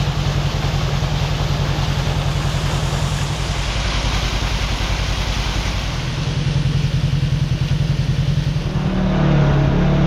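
Kawasaki KRX side-by-side's parallel-twin engine running as it drives, with road and wind noise; the engine picks up and grows louder near the end.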